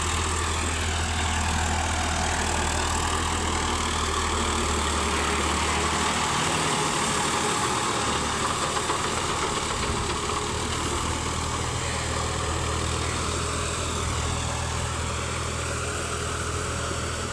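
Massey Ferguson 246 tractor's diesel engine running steadily, with a low even hum.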